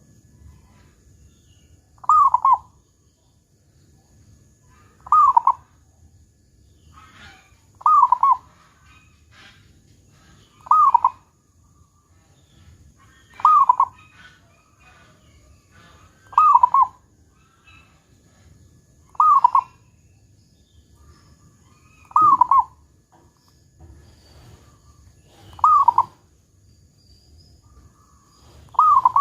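Zebra dove (perkutut) cooing: ten short song phrases repeated evenly, about one every three seconds, each a quick curved coo around 1 kHz. It is a local perkutut with a big "kung" voice.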